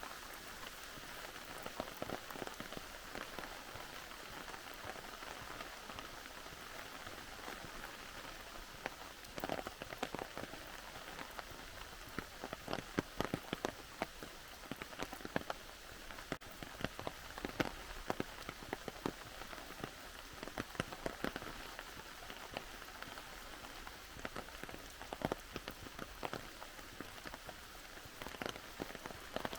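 Steady rain: an even hiss with many sharp, close drop hits, which come thicker from about ten seconds in.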